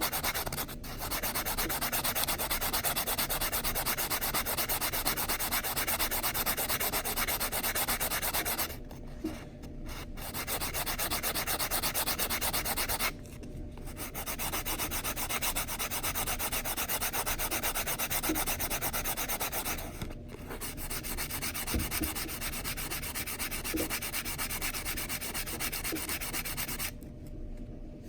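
Metal coin ring edge being rubbed back and forth on a nail file board, a steady scratchy sanding rasp that breaks off briefly a few times and stops just before the end.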